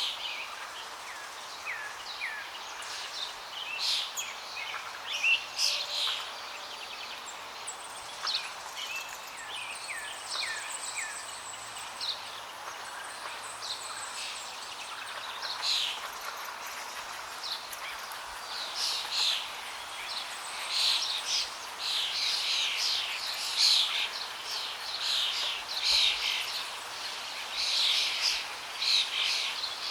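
Several birds chirping and singing over a steady rush of flowing water; the chirping grows busier about halfway through.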